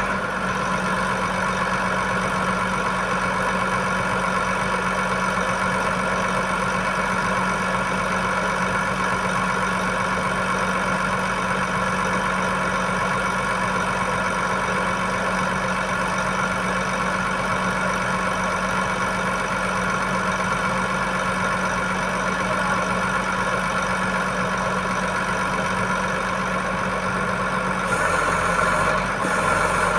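Heavy truck diesel engine idling steadily at an even pitch, a little louder near the end.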